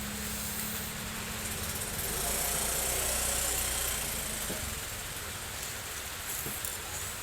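Steady rain, with a motor vehicle passing that swells and fades between about two and four seconds in.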